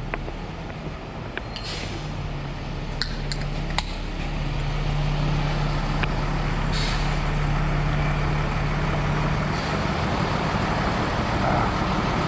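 Tow truck engine running steadily, getting louder about four seconds in, with a few short hisses of air and a couple of light clicks.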